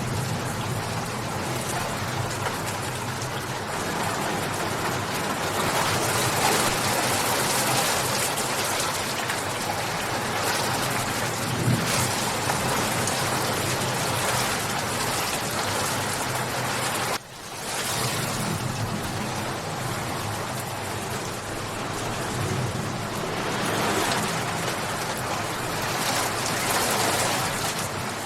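Steady, heavy rainfall hissing on surfaces, swelling and easing a little. About two-thirds of the way through it drops out for an instant and comes straight back.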